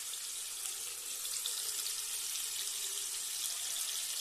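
Marinated chicken pieces frying in a mix of hot vegetable and mustard oil in a non-stick pan: a steady, even sizzle with fine crackles.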